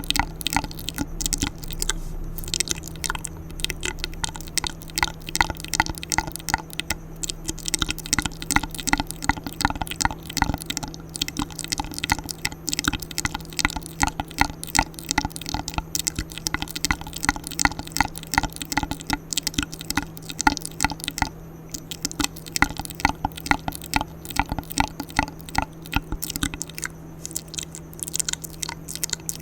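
Wet ASMR mouth sounds: quick clicks, smacks and tongue pops, several a second without pause.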